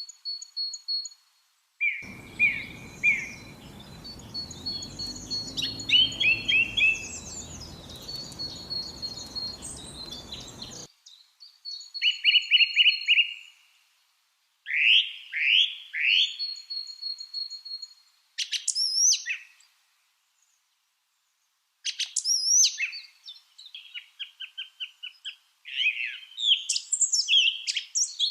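Lovebirds chirping and calling in bursts of quick, sharp chirps and high whistled notes, with a few short silent breaks between the bursts.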